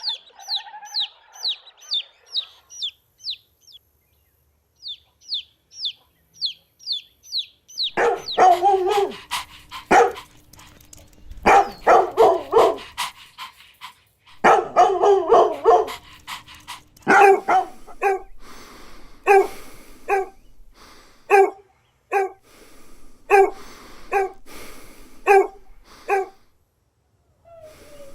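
Dogs barking: after a rapid series of high, falling chirps, loud barks come in dense clusters, then settle into single barks about one a second.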